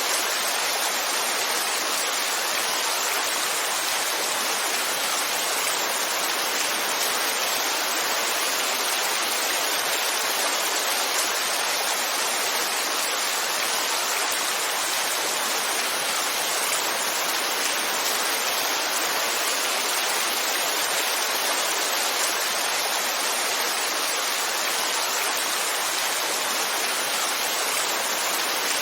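Heavy rainfall as a steady, even hiss with no separate drops, thunder or other events standing out.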